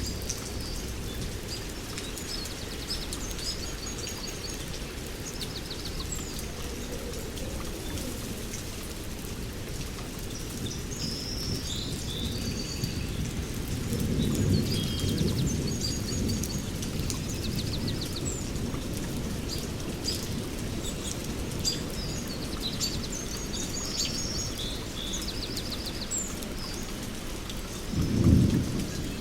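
Steady heavy rain, with thunder rumbling for a few seconds about halfway through and a shorter, louder thunderclap near the end. Birds chirp over the rain throughout.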